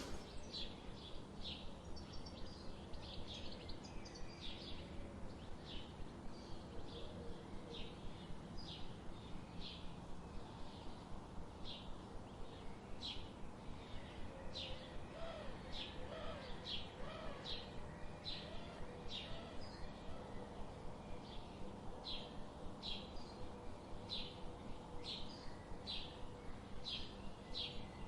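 A bird chirping over and over, short high chirps repeating steadily about every half second, with a few fainter, lower calls in the middle and a steady low background hum.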